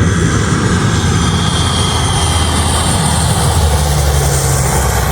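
Propeller engines of a grey Philippine Air Force military transport plane on its landing approach: a loud, steady low drone with a faint high whine over it.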